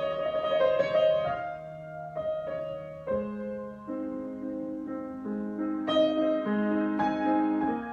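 Solo piano being improvised: chords and melody notes ringing on. From about four seconds in, a quick repeating figure sounds in the lower middle under the held notes.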